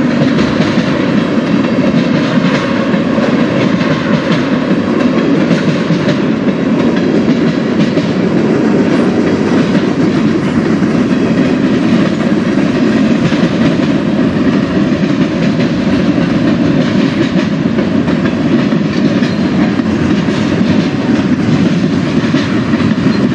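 Freight cars of a passing CSX train rolling by close at hand: the steady noise of steel wheels running on the rails.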